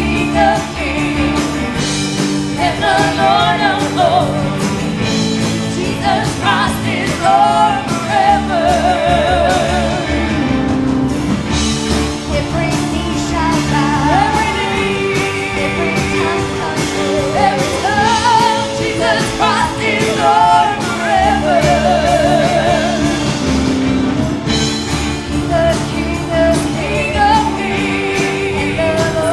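Live gospel worship music: singers with vibrato over a full band with drums and steady chords, in a large church hall.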